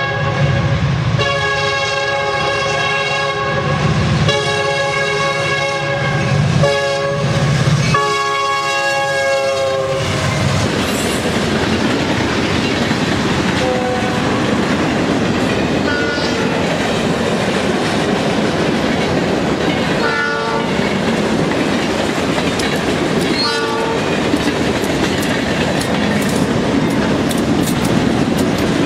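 A locomotive horn sounds the grade-crossing pattern, long, long, short, long, over the rumble of a passing freight train, and stops about ten seconds in. The freight cars then roll steadily past, wheels clicking over the rail joints, with a few brief wheel squeals.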